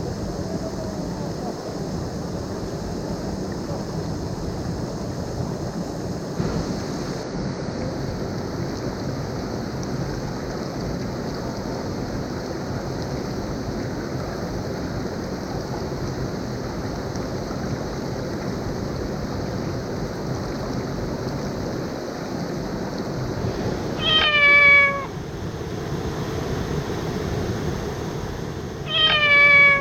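Steady rush of the hot-spring waterfall's falling water. Near the end come two short animal calls about five seconds apart, each dropping slightly in pitch.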